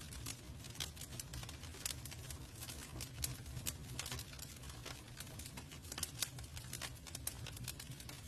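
Campfire crackling: burning wood snapping and popping in irregular sharp clicks over a steady low rumble of the fire.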